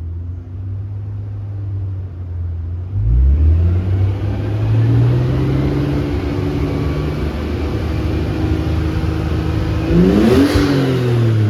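Nissan Skyline ER34 25GT Turbo's RB25DET turbocharged straight-six revving through an aftermarket front pipe and HKS Silent Hi-Power muffler. It runs steady at low revs, is raised about three seconds in and held higher while slowly climbing, then gets one quick sharp blip near the end.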